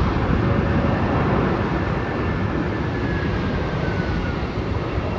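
Jet engines of a Qantas Airbus A330 airliner coming in to land: a loud, steady roar with a thin whine that falls in pitch about halfway through as the aircraft goes by.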